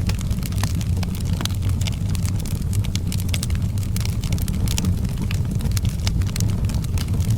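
Fireplace fire crackling, with frequent irregular sharp pops and snaps over a steady low rumble.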